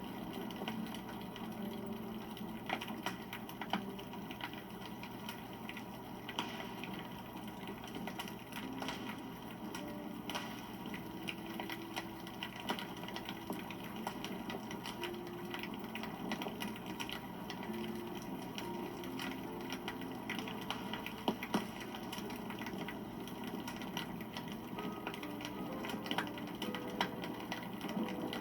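Wood campfire burning, with a steady rush of flame and irregular sharp crackles and pops from the burning wood.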